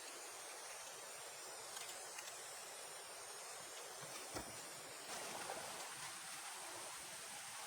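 Steady hiss of rain falling, with a few faint taps and one brief knock a little past the middle.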